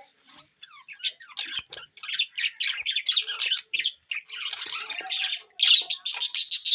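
Budgerigars chattering and chirping in rapid short notes, starting about a second in and growing denser and louder toward the end.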